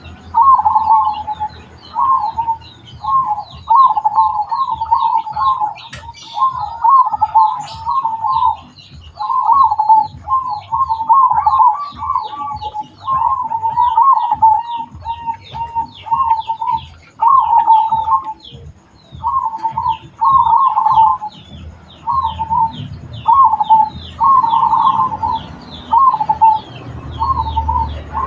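Zebra dove (perkutut) cooing: short rolling phrases of soft notes, repeated with brief pauses throughout. Quick, high chirps from other small birds run underneath.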